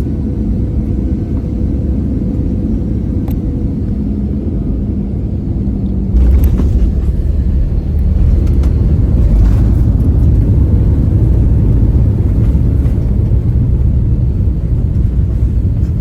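Airbus A320 cabin noise during landing: a steady engine drone, then a sudden jump in rumble about six seconds in as the wheels touch down, growing louder again about two seconds later through the landing roll.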